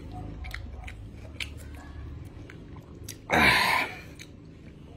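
Chewing of sour bilimbi (iba) fruit, with small wet mouth clicks. A little over three seconds in comes one short, loud breathy exhale with a voice in it.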